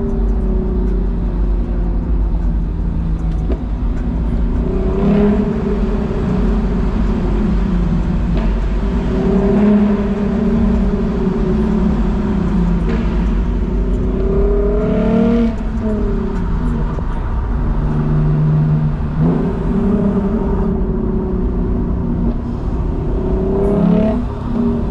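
Lexus IS350's V6 with an F Sport exhaust and resonator delete, heard while driving. The engine note rises and falls several times as the car accelerates and the revs climb and drop.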